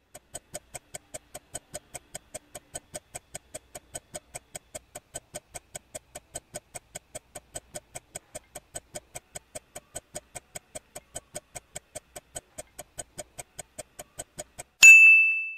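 Countdown timer sound effect: an even clock ticking, about four ticks a second, marking the time to answer a quiz question. Near the end a loud, bright ding rings out as time runs out.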